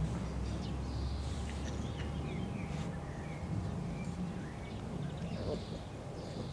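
Outdoor ambience of small birds chirping in short, quick notes over a steady low rumble.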